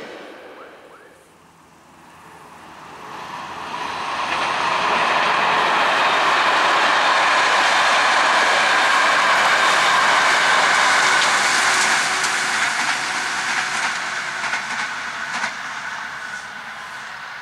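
A passenger train passing on open track. The rumble of its wheels on the rails swells over a few seconds, holds steady, then fades as the train draws away, with a few clicks of wheels over rail joints near the end.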